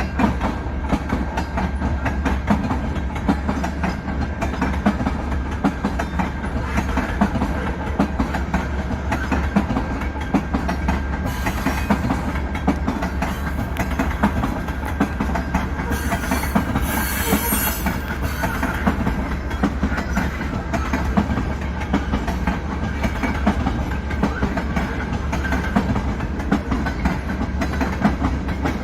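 CN freight train's cars rolling past with steady clickety-clack of wheels over the rail joints. A short high-pitched sound comes in twice around the middle.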